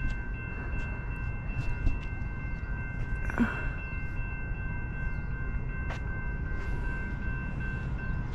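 Amtrak passenger train with a GE P32-8 Dash 8 diesel locomotive and Comet coaches running through the station: a steady low rumble with a faint steady high whine and a few light clicks.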